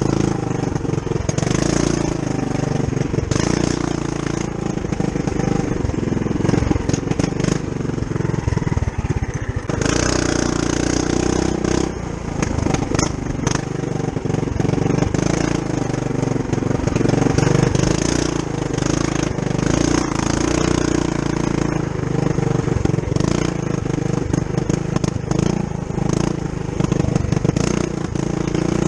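Trail Master MB200-2 mini bike's Tillotson 212cc single-cylinder four-stroke engine, its governor gear removed, running under load on a trail ride. The engine speed rises and falls with the throttle, easing off briefly about ten and twelve seconds in.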